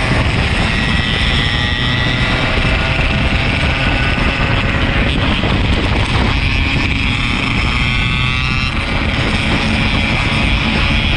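Yamaha RX-King 135's two-stroke single-cylinder engine running under way, its pitch rising and falling slowly with the revs, with wind buffeting the microphone.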